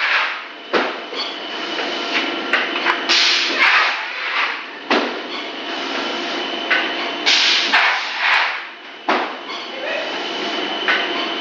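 Extruder machine running with a steady hum, broken about every four seconds by a short hissing rush and then a sharp knock.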